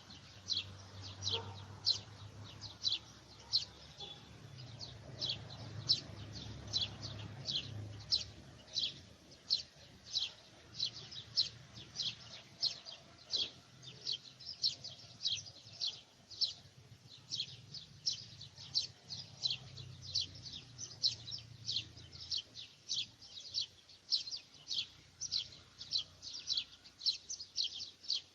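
A bird calling over and over with short, high chirps that drop in pitch, about two a second and very regular, over a faint low rumble.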